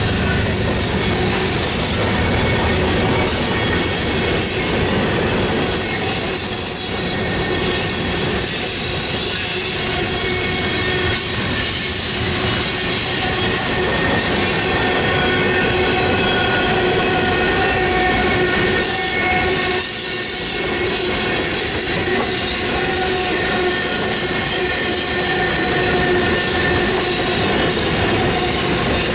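Freight train cars, covered hoppers and tank cars, rolling steadily past with a continuous clatter, the wheels squealing on the rails in several steady high tones that come and go.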